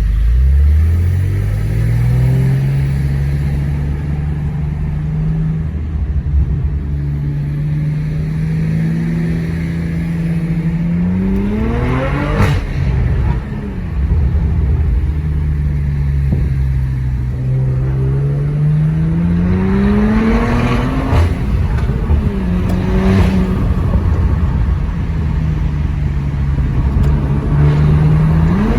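Porsche Macan with a Remus aftermarket exhaust pulling hard: the engine note holds steady, then climbs through the revs twice, each climb ending in a sharp crack, before settling back to cruising. Another climb begins at the very end.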